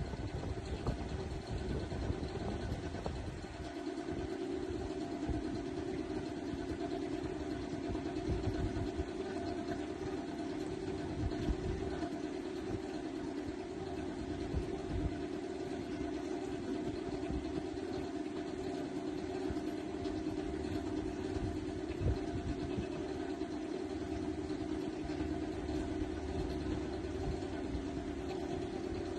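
Steady engine drone of a vehicle, an even hum that holds unchanged throughout.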